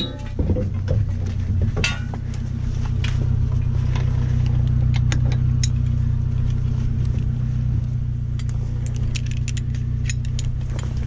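Suzuki Samurai's engine idling steadily, with scattered light clicks and rustles of gear being handled.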